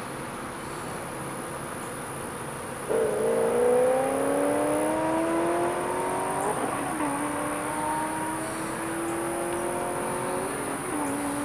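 A road vehicle's engine pulling away: a steady road-noise hiss for about three seconds, then the engine's pitch climbs steadily, drops with a gear change about six and a half seconds in, climbs again and drops once more near the end.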